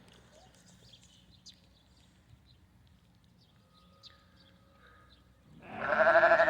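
Faint small clicks and rustles, then about five and a half seconds in a St Croix hair sheep gives one loud, wavering bleat lasting about a second.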